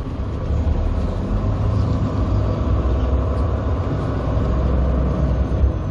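Semi truck's diesel engine running steadily with a low rumble, heard from inside the cab as the truck pulls its trailer through a tight turn.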